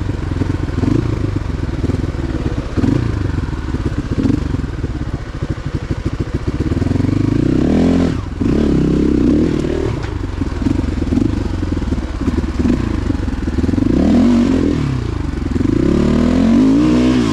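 Motorcycle engine running with the revs repeatedly rising and falling, with a short drop about eight seconds in.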